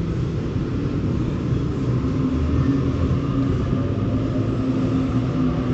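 Passenger train running, a steady rumble with a low hum that firms up about two seconds in.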